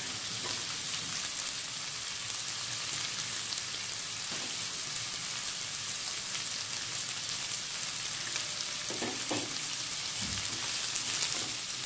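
Sliced onions and green chillies frying in hot oil in a pan, a steady sizzling hiss. A few light knocks near the end.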